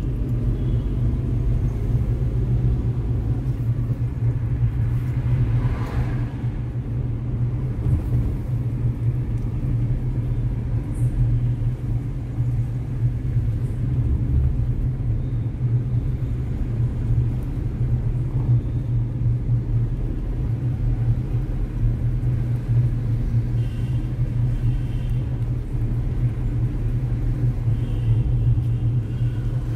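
Steady low rumble of the Tata Punch on the move, its three-cylinder petrol engine running under the road and tyre noise. A couple of faint short high tones come in near the end.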